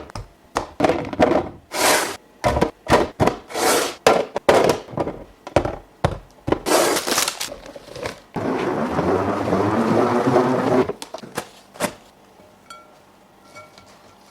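Groceries and containers being handled and set into a fridge: a quick run of plastic and glass clicks, knocks and packaging rustles, then a steady rush lasting about two and a half seconds, then a few faint ticks.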